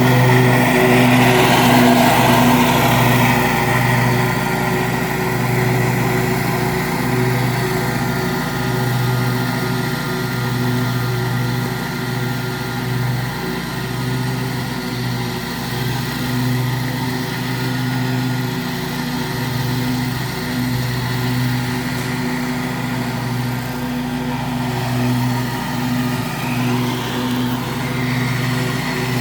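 Kawasaki V-twin engine of a Scag Liberty Z zero-turn mower with a mulching kit, running steadily while mowing. It is a little louder in the first few seconds.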